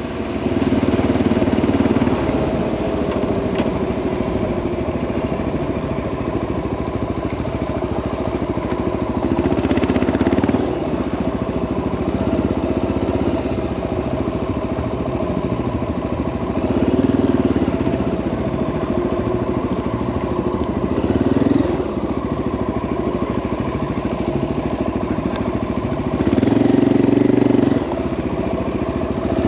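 Honda XR650L's single-cylinder engine running under way, with the throttle opened up in short surges every few seconds.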